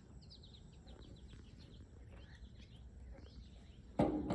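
Small birds chirping in quick series of short, falling chirps over a low steady rumble, with a sudden loud bump near the end.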